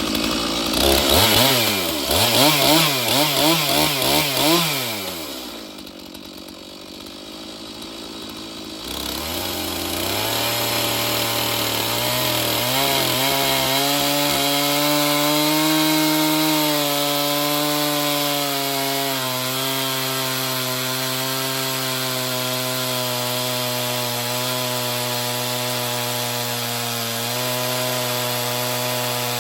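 Two-stroke chainsaw on an Alaskan chainsaw mill, revved up and down in quick blips for the first few seconds, then dropping back to idle. About nine seconds in it goes to high throttle and runs steadily under load as it mills a board from a log.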